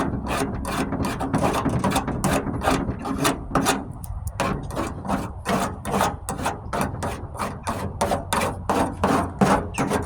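Surform flat-blade rasp scraped in quick repeated strokes over hardened body filler, shaving it down level, about three strokes a second.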